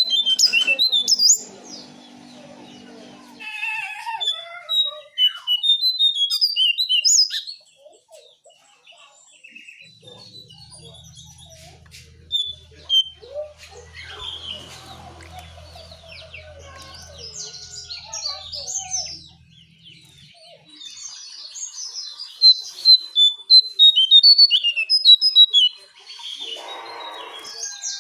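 Lesser shortwing (cingcoang coklat) song: bursts of rapid, high-pitched warbling notes, broken by short pauses.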